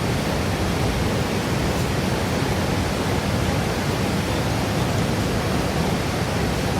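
Steady, even background hiss that does not change.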